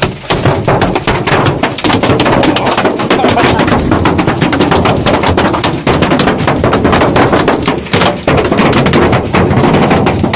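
Hail pelting down hard: a dense, continuous clatter of countless hailstone impacts with no let-up.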